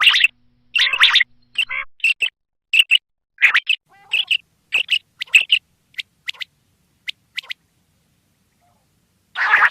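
Common quail calling: a string of short, sharp, high chirping notes in quick irregular groups, falling silent for about two seconds near the end before a louder, harsher call begins.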